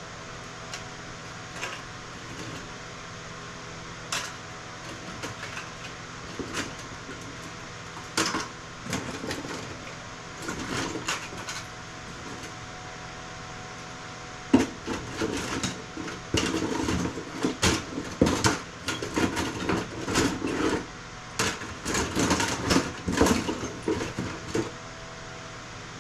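Circuit boards clattering and knocking as they are picked through and tossed onto sorting piles by hand: scattered clacks at first, then a busy run of them over the second half, over a steady background hum.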